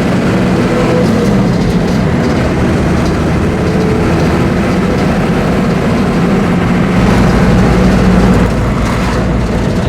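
1989 Dodge D350's 12-valve Cummins turbo diesel running under way with a steady drone, rising a little louder and deeper for a moment near the end.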